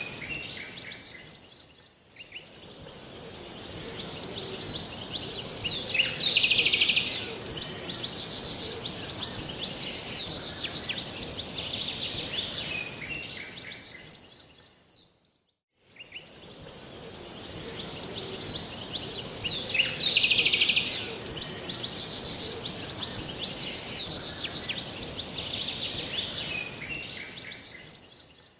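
Songbirds chirping and singing over a steady high hiss, with a louder run of chirps about six seconds in. The same stretch of recording plays twice, fading out and back in about every fourteen seconds.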